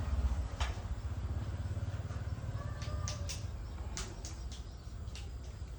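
Pickup truck engine running steadily with a low, rapidly pulsing rumble, with several sharp clicks or taps over it: a couple near the start and a cluster about three to four seconds in.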